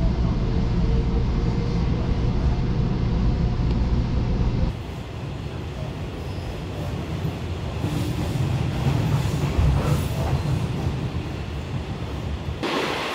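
Electric commuter train running with a loud, steady low rumble. About five seconds in it changes suddenly to the quieter, even rumble heard inside a moving electric multiple-unit car.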